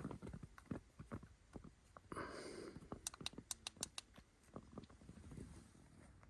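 Faint rustling and scattered small clicks of someone shifting about inside a tent, with a short scratchy scrape about two seconds in and a quick run of sharper ticks a second later.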